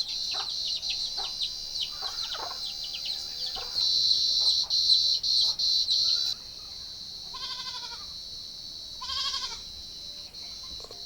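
Steady high-pitched insect chirring, louder for a couple of seconds midway, with short bird chirps in the first few seconds. A goat bleats twice in the second half, each bleat wavering and under a second long.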